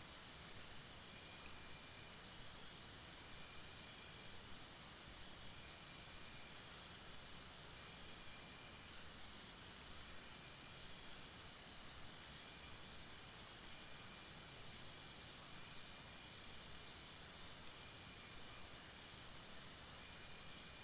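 Night jungle insect chorus: a steady, high, pulsing trill over a faint hiss, with a fainter lower trill coming and going. A quick run of very high chirps comes twice, around the middle and near the end, along with a couple of sharp clicks.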